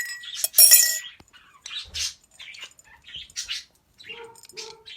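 A pet parrot making a series of short, raspy, high-pitched calls and chirps, with a few light clinks, the loudest burst just after the start and two lower calls near the end.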